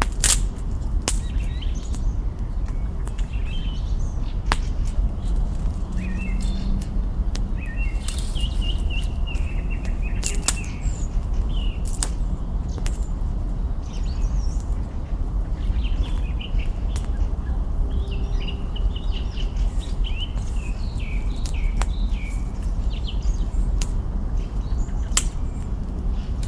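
Wood campfire crackling, with scattered sharp pops over a steady low rumble, while small birds chirp and twitter.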